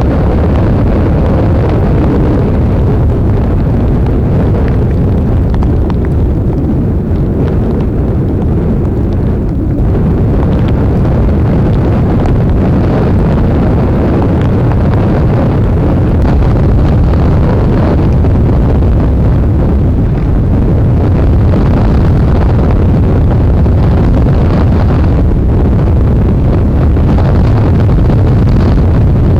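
Blizzard wind blowing hard across the microphone: a loud, steady rumble of wind noise, heaviest in the low end, that picks up slightly about ten seconds in.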